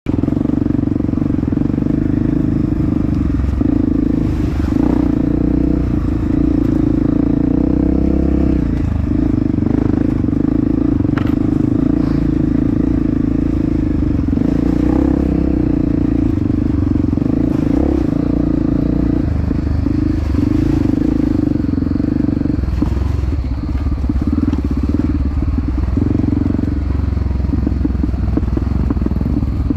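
Honda CRF250F dirt bike's single-cylinder four-stroke engine running steadily under way, its note dipping briefly now and then as the throttle eases, with some clatter.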